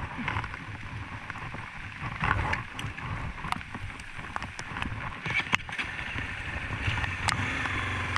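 Honda XRE 300 single-cylinder motorcycle engine running at low revs, with scattered sharp clicks and knocks over it; the engine grows a little louder near the end.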